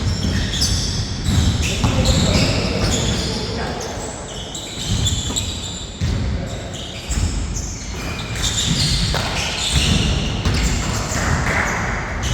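Basketball bouncing repeatedly on a court during a pickup game, with players' voices calling out over it.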